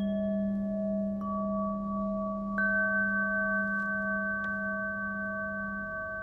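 Singing bowls ringing in long sustained tones, layered over one another. New bowls are struck about a second in and again about two and a half seconds in, while a low, deep tone rings on beneath and fades near the end.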